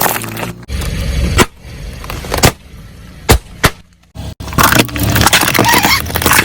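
Car tyre rolling over and crushing objects: a low engine hum with several sharp cracks and pops. After a brief dropout about four seconds in, a dense stretch of crunching and crackling follows.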